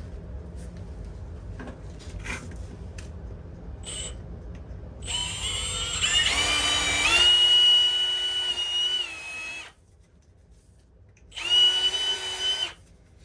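Power drill running in two bursts, boring out a hole to a larger size. About five seconds in it speeds up to a steady whine that holds for about four seconds and stops suddenly. A shorter burst at the same pitch comes near the end.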